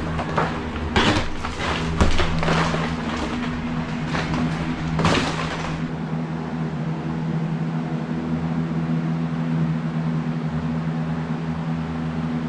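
Repeated knocks and crashes of wall demolition over a steady low hum; after about six seconds the knocking stops and only the hum continues.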